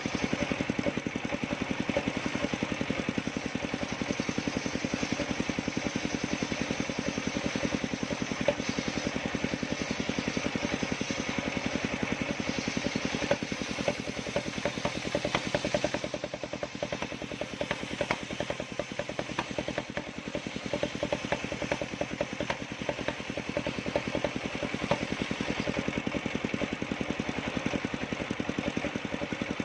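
Engine of a homemade circular-saw sawmill running steadily with a rapid even firing beat. It eases off for a few seconds past the middle, then picks up again.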